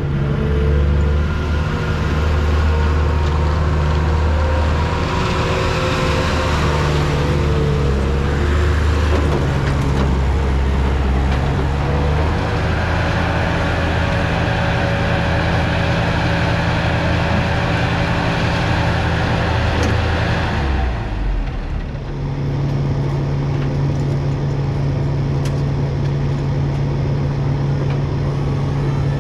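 A vehicle engine running, its pitch stepping up and down every few seconds, then settling to a steady pitch about two-thirds of the way through.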